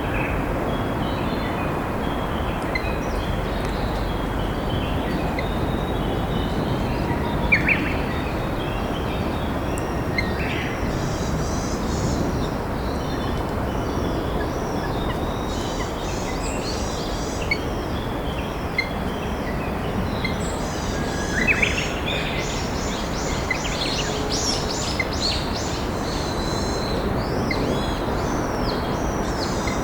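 Steady rush of a flowing river with many wild birds chirping and singing over it, the birdsong getting busier in the second half.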